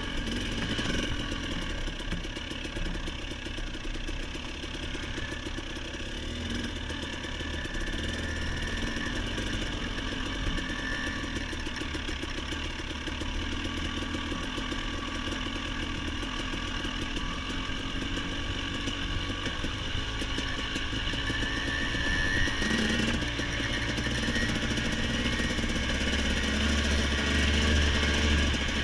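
Dirt bike engine running continuously on a trail ride, the throttle shifting a little. It grows somewhat louder near the end.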